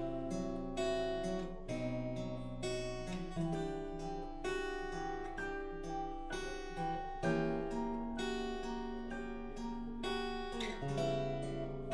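Instrumental song introduction led by plucked acoustic guitar, with a steady run of picked notes and chords and no singing yet.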